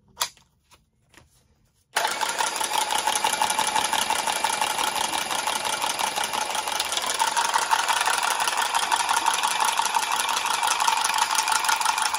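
Milwaukee cordless automatic copper tubing cutter running, its head spinning around 3/4-inch copper pipe to cut it. A few light clicks, then the motor starts about two seconds in and runs steadily, with a whine that gets a little stronger partway through.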